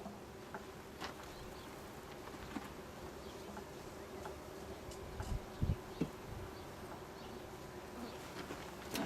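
Honey bees humming steadily in an open hive, with a few light clicks and a couple of soft low knocks about five to six seconds in.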